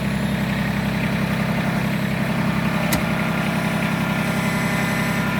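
Kubota tractor's diesel engine idling steadily, with a single sharp click about three seconds in.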